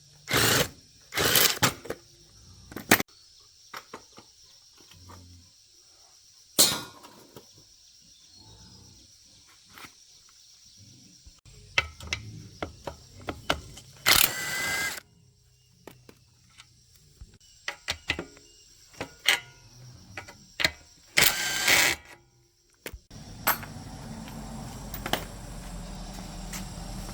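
Workshop work on a motorbike: scattered clinks and knocks of metal tools and parts, with several short, louder noisy bursts. A steady low noise starts near the end.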